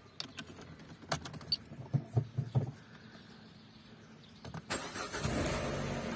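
Peugeot 407 engine started with the key: a few clicks first, then about four and a half seconds in it cranks briefly, catches and settles into a steady idle. It runs a lot better now that the faulty ignition coil has been replaced.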